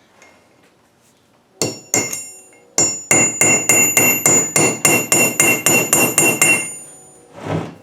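Hammer striking a small chisel against a broken ring gear bolt to drive it round and back it out: two blows, a short pause, then a steady run of ringing metal-on-metal blows, about four a second, that stops about two thirds of the way through.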